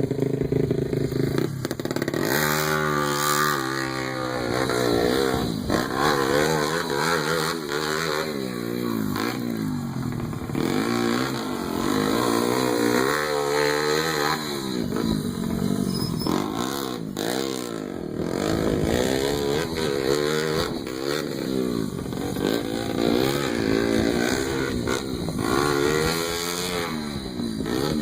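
Pit bike engine revving up and falling back over and over as it is ridden, its pitch climbing and dropping every second or two.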